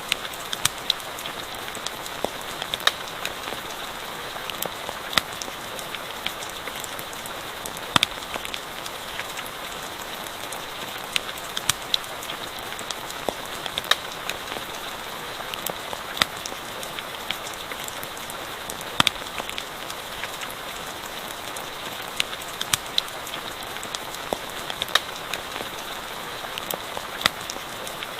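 Steady rain falling, with sharp crackles and pops from a campfire scattered through it.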